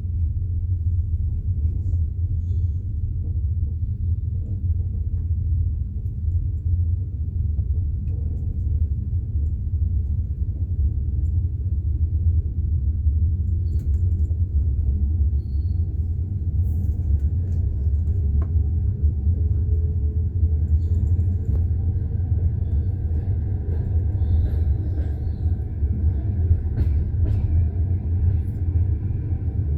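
Steady low rumble of a passenger train coach running on jointed rail track, heard from inside the coach.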